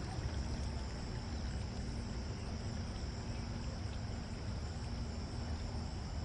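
Wind rumbling on the microphone, with a steady high-pitched chirring of crickets or other insects over it.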